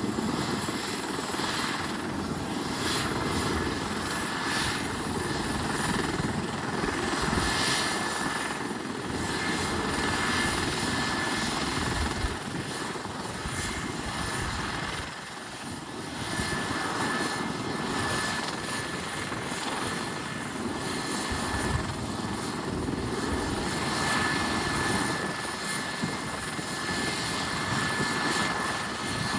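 Helicopter engine and rotor running on the ground during start-up, a steady mechanical noise with a thin high whine held throughout.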